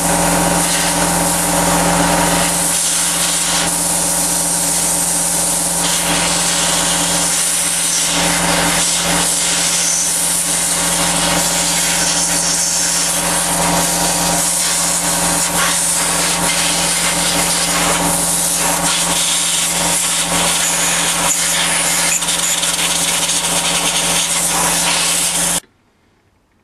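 Electric power tool running steadily, a motor hum with a strong hiss and rubbing noise over it, cutting off abruptly near the end.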